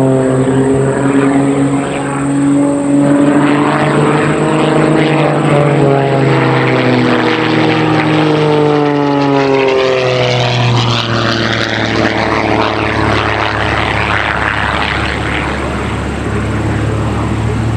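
Two Christen Eagle aerobatic biplanes with engines boosted well above 300 horsepower, their propellers running at high power. The pitch rises and falls as they manoeuvre and pass, dropping noticeably about nine seconds in, and a rougher, noisier sound follows.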